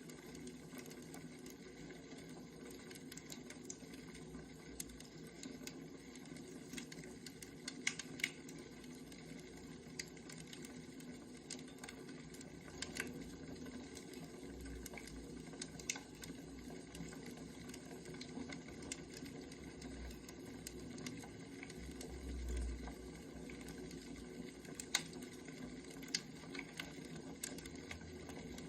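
Wood fire crackling: a steady hiss with irregular sharp pops and snaps scattered throughout, and a few soft low thumps.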